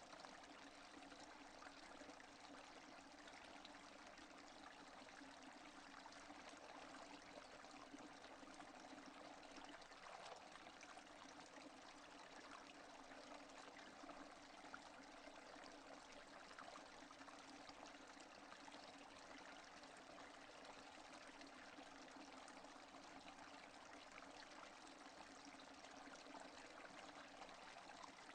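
Steady rain falling, heard as a faint, even hiss of many drops that never lets up, with no thunder.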